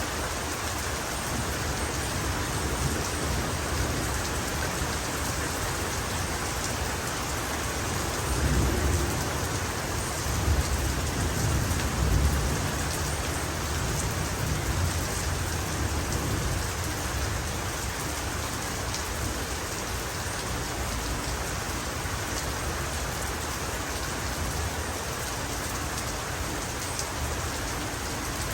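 Heavy rain falling in a steady hiss, with a low rumble of thunder that swells about eight seconds in and fades by about thirteen seconds.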